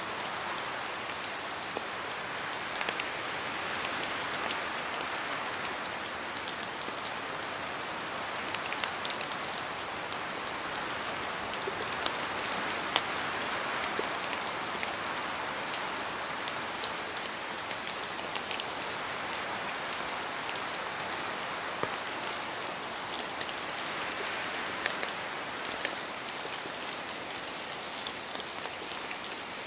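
Steady rain falling, with the hiss of the downpour and many small sharp drop ticks on leaves and surfaces, swelling and easing gently every few seconds.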